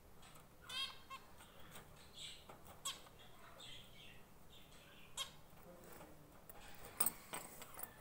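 Small pet birds calling: scattered short chirps and calls, with a couple of sharp clicks about seven seconds in.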